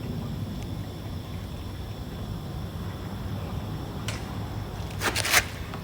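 Steady low background rumble, with a few short knocks and rustles about five seconds in.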